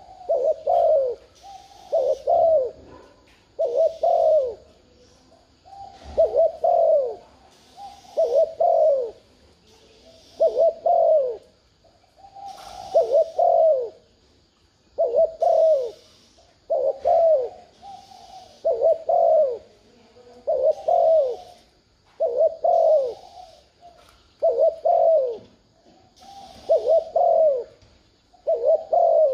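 Spotted dove (chim cu gáy) cooing over and over, a low multi-note phrase every second or two. It is the bowing 'gù' coo that Vietnamese bird trappers play to stir a caged decoy and draw wild doves.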